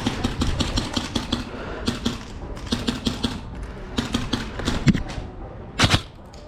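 Airsoft guns firing: a run of sharp, irregularly spaced cracks, with a louder cluster of shots near the end.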